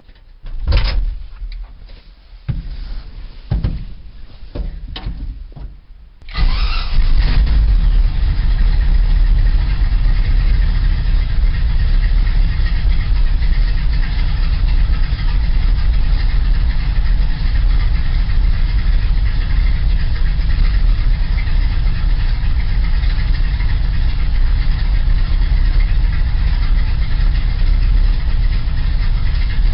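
A few scattered knocks and clicks, then about six seconds in a truck engine starts and settles into a steady idle, warming up its long-overdue oil before an oil change.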